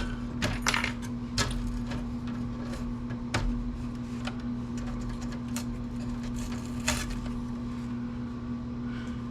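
Scattered light clicks and short scrapes of metal computer parts being handled and worked on by hand, over a steady low hum.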